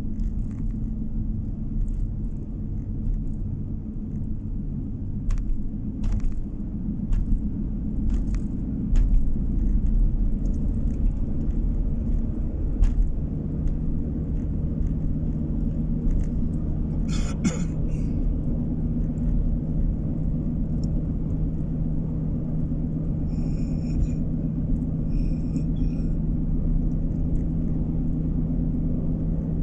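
Car driving on the road, heard from inside: a steady low rumble of engine and tyres, its engine hum settling to a new pitch about halfway through. A few light clicks come in the first half, and a brief high-pitched sound and some short chirps come later.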